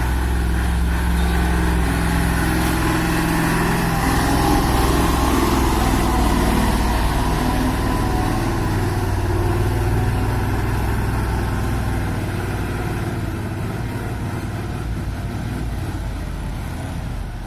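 Heavy truck's diesel engine running under way. It grows loudest a few seconds in, then fades toward the end.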